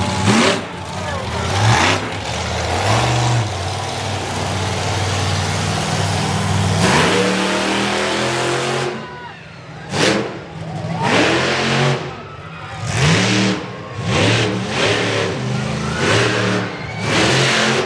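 Monster truck engine revving hard, its pitch rising and falling, held on the throttle through the first half and then blipped in a string of short rev bursts about once a second.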